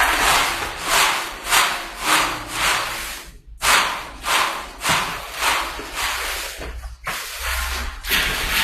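Spatula scraping and stirring food in a frying pan, about two strokes a second over a steady frying hiss, pausing briefly twice.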